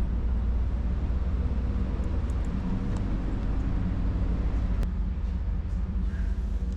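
Steady low engine rumble with a constant drone, holding the same pitch without revving.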